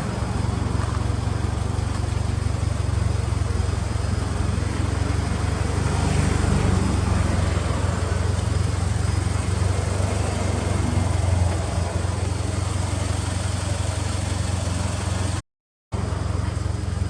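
Lancer Evolution X's turbocharged 2.0-litre four-cylinder running at a steady idle, a deep even rumble through an aftermarket titanium exhaust. The sound drops out briefly near the end.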